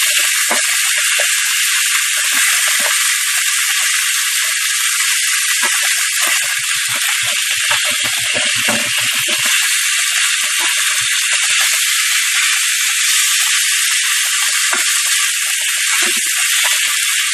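Sliced chicken sizzling steadily in hot vegetable oil in a frying pan, with a cluster of soft low knocks about six to nine seconds in.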